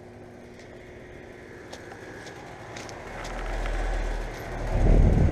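A vehicle rumbling past close by over a steady low hum. The rumble swells in the second half and is loudest near the end.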